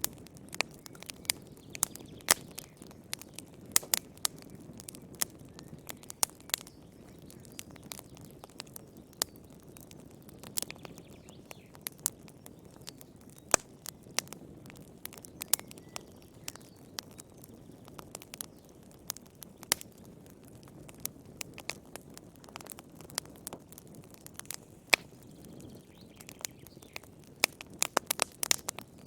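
Wood fire burning in a fireplace: a steady low rush of flame under irregular sharp crackles and pops of burning firewood, with a quick run of pops near the end.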